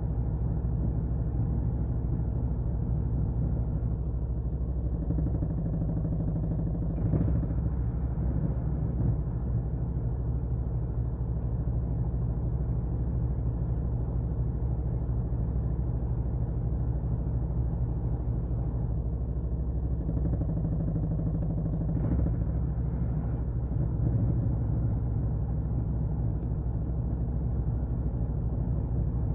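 Washing machine running: a steady motor hum and rumble, with a brief change in the drum's sound about seven seconds in and again about twenty-two seconds in.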